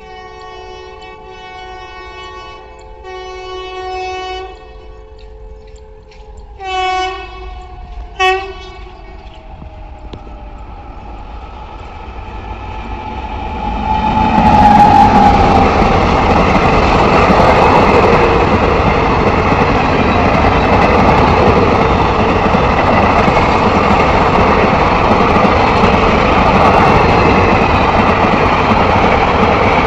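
Indian Railways locomotive horn sounding a chord in a series of blasts, then two short toots with a faint falling tone after them. A train then closes in, and from about halfway through the loud, steady rush of a train passing at speed takes over.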